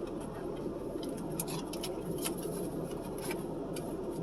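Close-up eating sounds: scattered soft clicks of chewing, over a steady low background hum.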